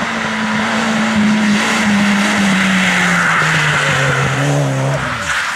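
Rally car engine running hard with a steady note that falls in two steps in the second half, over a loud hiss of sliding tyres, before the engine sound stops just before the end.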